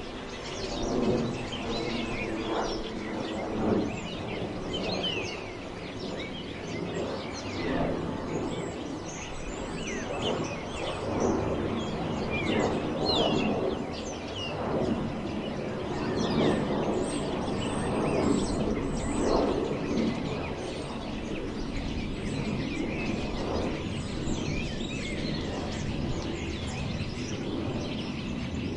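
Wind blowing through forest trees, swelling and easing in gusts every few seconds, with many birds chirping throughout.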